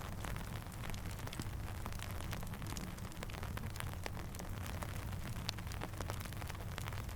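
Steady rain hiss with frequent sharp crackles and pops of a campfire scattered through it, over a low rumble.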